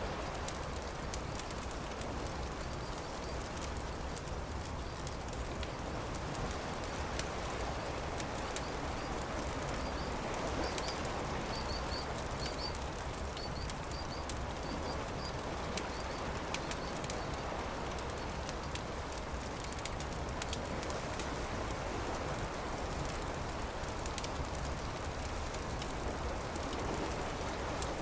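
Campfire crackling with scattered sharp pops over a steady rushing wash, and a bird chirping a few times in the middle.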